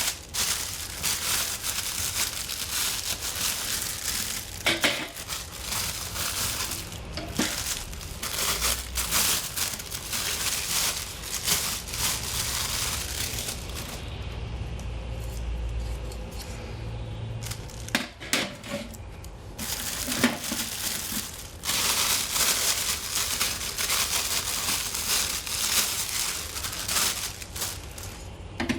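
Packaging being handled and unwrapped by hand: wrapping crinkling and rustling with small scrapes and taps. There is a quieter lull around the middle of the clip.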